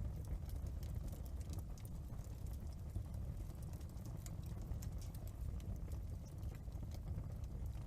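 Wood fire crackling in a fireplace: irregular small pops and snaps over a low, steady rumble of burning.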